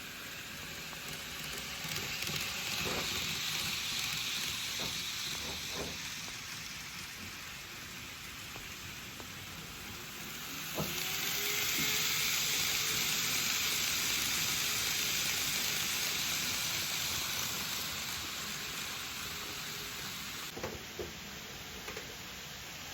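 N-gauge model trains running on the layout's track: a steady rolling hiss of wheels on rails that swells twice as trains pass close, the second time longer, with a few faint clicks.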